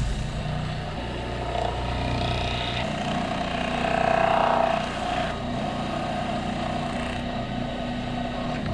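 Wood lathe running steadily with the ash bowl spinning as wax is buffed onto it, a constant motor hum that swells briefly about halfway through.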